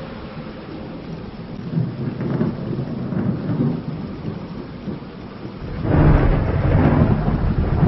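Thunderstorm: steady rain with low rolling thunder. A louder rumble swells up about six seconds in.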